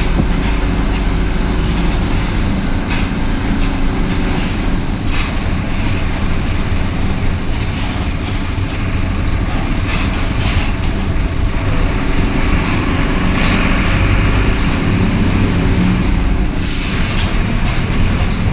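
Mercedes-Benz OF-1721 Bluetec 5 bus running on the road, its four-cylinder diesel engine humming steadily under the cabin noise. A short burst of air hiss comes near the end.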